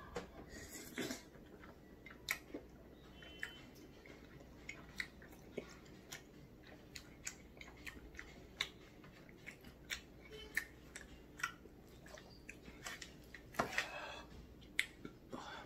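Close-up chewing of chewy, sauce-coated tteokbokki rice cakes: irregular wet smacks and clicks of the mouth. Near the end comes a louder, longer rustle, as chopsticks lift a piece of kimbap off its aluminium foil wrapper.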